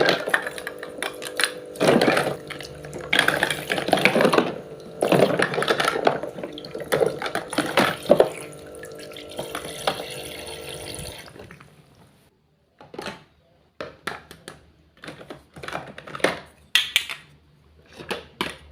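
Water running and splashing over a steady hum, stopping about eleven seconds in; after that, scattered small clicks and taps.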